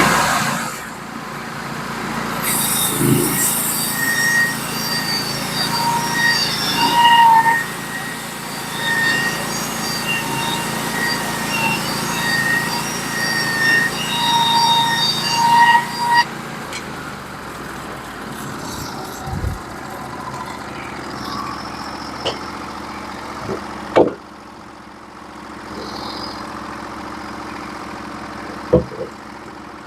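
Norwood HD36v2 portable band sawmill's engine running while the band blade cuts a board off a cant, with a steady whine and hiss of the cut. About sixteen seconds in the cut ends and the engine settles to a quieter steady run, with a few sharp knocks near the end.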